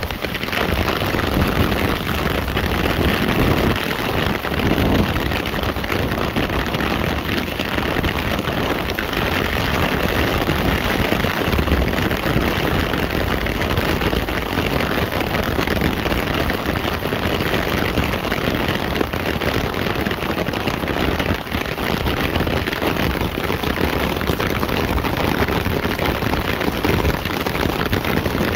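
Heavy rain falling steadily, drumming on a clear plastic umbrella overhead and splashing on wet pavement.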